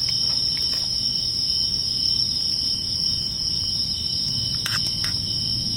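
Steady chorus of night insects: a continuous high trill, over a low background rumble. Two faint clicks near the end.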